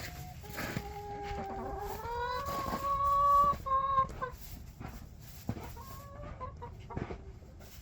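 Chickens calling: one long drawn-out call that rises in pitch partway through and is loudest near its end, followed a couple of seconds later by a few short clucks.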